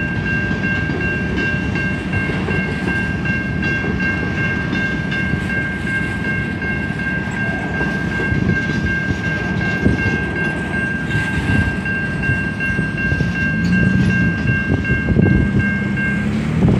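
Freight cars rolling past with a low rumble of wheels on rail, over the steady ringing of a grade-crossing bell that stops shortly before the end as the last car clears. A vehicle engine rises in pitch in the last few seconds.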